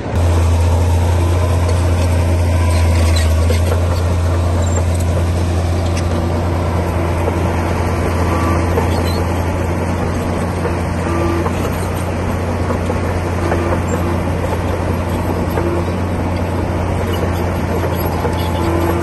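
Komatsu D60P bulldozer's diesel engine running steadily, a deep, even drone, with a few faint clanks over it.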